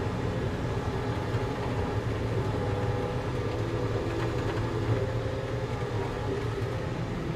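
Volvo skid steer's diesel engine running steadily under light work, its pitch shifting slightly now and then.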